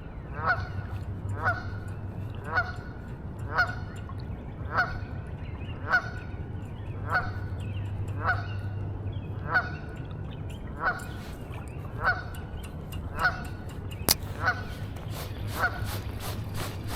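A bird's short call repeated evenly, about once a second, over a low steady rumble, with a single sharp click about 14 seconds in.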